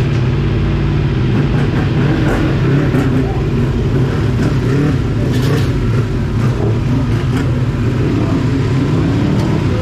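Motorcycle engine running at a steady speed, with a rush of wind noise over it.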